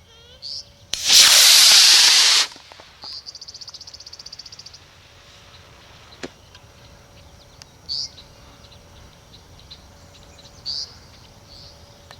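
Model rocket motor igniting and lifting off: a loud rushing hiss about a second in that lasts about a second and a half, then cuts off as the motor burns out. Small birds chirp afterwards.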